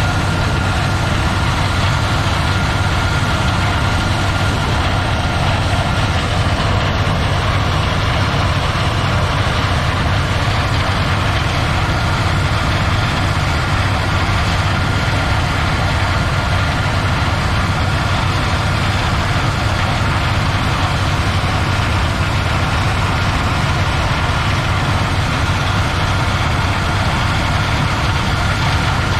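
Heavy diesel harvest machinery running steadily under load, a deep engine drone with a constant high whine over it.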